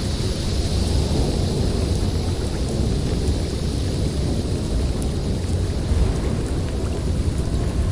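Snowstorm wind blowing steadily: a deep rumble with a higher hiss that swells around the start and then eases.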